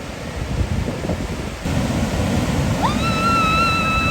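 Ocean surf and wind rushing over the microphone, getting louder after about a second and a half. Near the end a single long, high-pitched squeal rises in and holds steady.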